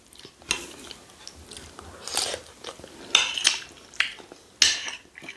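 Close-up mukbang eating sounds: chewing and mouth noises over rice and goat meat stew, in about five short, sharp bursts with quiet gaps between them.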